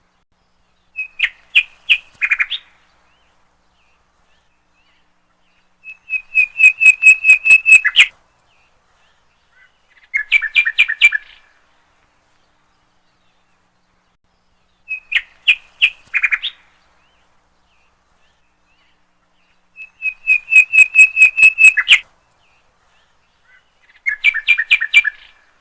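A songbird chirping in short bursts of rapid, evenly spaced notes. The same three-phrase sequence repeats about every 14 seconds, as a looped recording.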